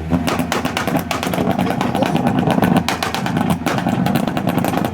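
Car engine held at high revs with a rapid, irregular crackle of exhaust pops and bangs.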